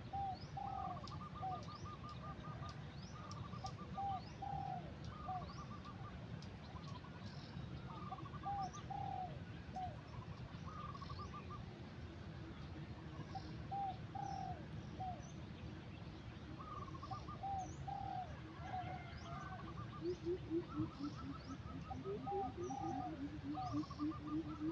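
Several birds calling in a dawn chorus: repeated short trills, paired slurred whistles, and, from about twenty seconds in, a fast run of low notes that grows louder.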